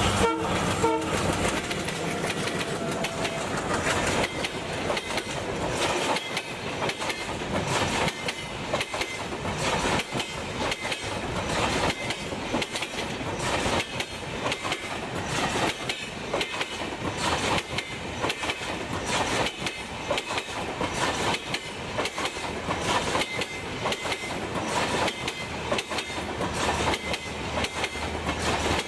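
Silk City Express train running at speed on broad-gauge track. Its Linke Hofmann coach wheels clatter over the rail joints in a rapid, steady clickety-clack over a continuous rumble.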